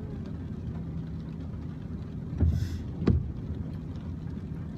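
Steady low hum of a car engine idling, heard from inside the cabin. A short sniff comes about two and a half seconds in, and a sharp single knock about half a second later.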